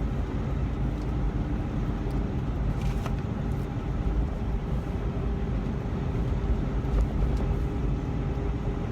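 Steady drone of a tractor-trailer cab at highway speed, engine and road noise heard from inside the sleeper cab.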